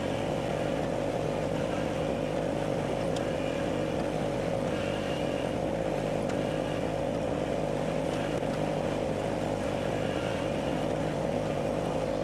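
An engine running steadily at an even speed, with a constant hum that does not rise or fall.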